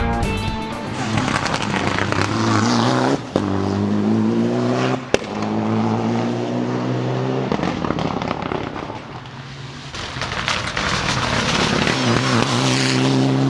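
Rally car engines at high revs passing at speed, with exhaust pops and a single sharp bang about five seconds in.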